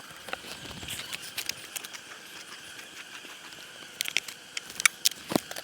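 Scattered light clicks and knocks of wooden hive boxes and frames being handled, with several in quick succession about four to five seconds in, over a faint steady drone of honey bees.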